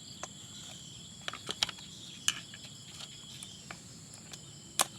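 Crickets chirring steadily in the background, with several sharp clicks and taps scattered through; the loudest are about two seconds in and near the end.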